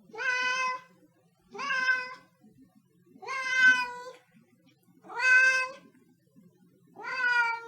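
Siamese cat meowing over and over: five drawn-out meows at fairly even intervals, each rising briefly at the start and then holding its pitch.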